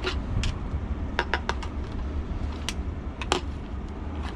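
Sharp clicks and knocks of hard plastic junk being handled and knocked together, about ten scattered taps, over a steady low rumble.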